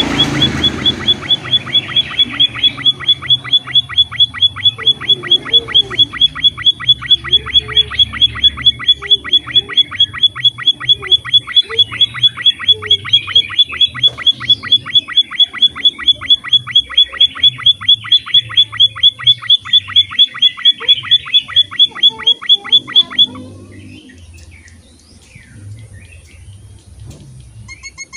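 A small finch-type songbird (emprit/munia) repeating one sharp, high chip about five times a second in a long even run. It stops after about twenty-three seconds, leaving only faint scattered calls, then starts again right at the end.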